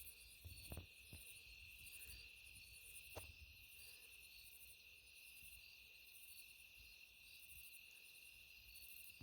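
Faint chorus of crickets and other insects: a steady high trill with a pulsing higher buzz over it. A few soft knocks come in the first few seconds.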